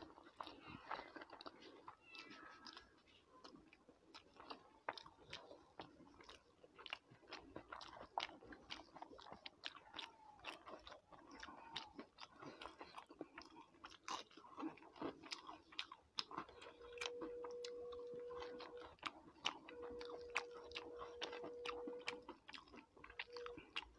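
A person chewing and biting food eaten by hand, with many short wet mouth clicks. In the last third a steady mid-pitched tone sounds twice for about two seconds each, then briefly once more.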